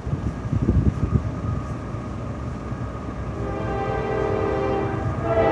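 Freight train rumbling with low thumps, then a locomotive horn sounding a steady chord of several notes from a little past halfway, growing louder toward the end.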